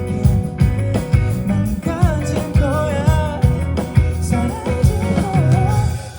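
Live rock band playing with a singer: a sung melody over drums and guitar, with a steady drum beat.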